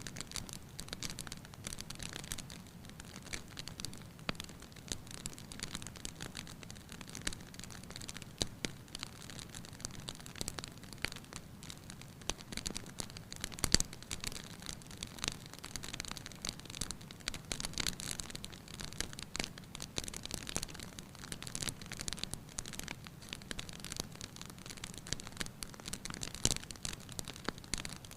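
Wood fire crackling in a fireplace: a steady run of small snaps and pops, with a sharper, louder pop about halfway through.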